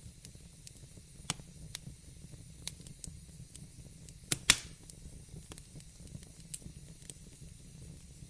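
Wood fire crackling in a fireplace: a steady low rumble and hiss of the flames with scattered sharp pops. Two louder pops come close together about four and a half seconds in.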